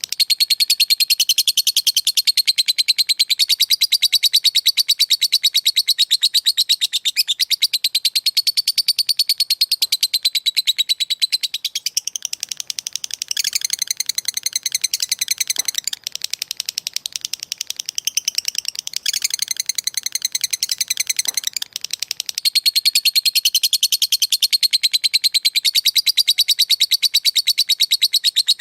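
Lovebird ngekek: a long, unbroken run of very fast, high-pitched chattering that sounds like rapid typing, with only a few brief dips in the middle.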